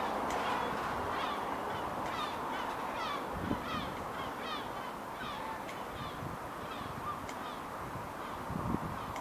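A flock of waterfowl calling, many short honking calls repeated in quick succession over a steady background hiss.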